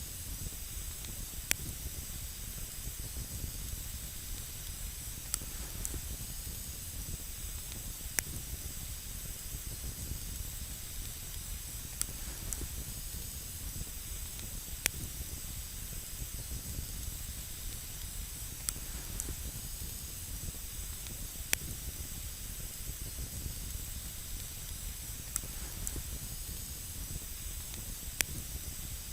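Wood campfire burning with a steady hiss, broken by a single sharp crack or pop every few seconds.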